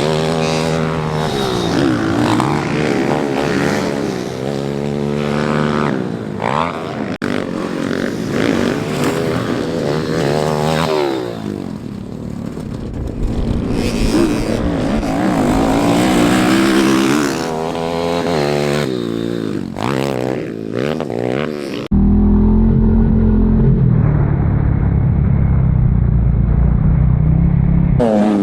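Pit bike engines revving up and down again and again as the bikes are ridden. About three-quarters of the way through, the sound cuts suddenly to a steadier, duller engine drone.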